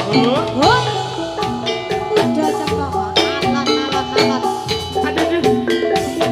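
Javanese gamelan music accompanying a jathilan dance: metallophones play a fast repeating pattern of struck notes over drums. A sliding note rises sharply about half a second in.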